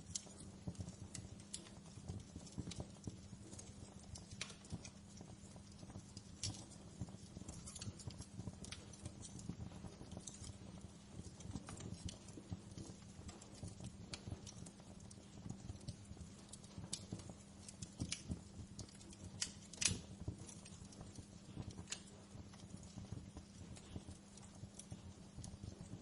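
Wood fire crackling in a fireplace: irregular snaps and pops, the sharpest about twenty seconds in, over a steady low hum.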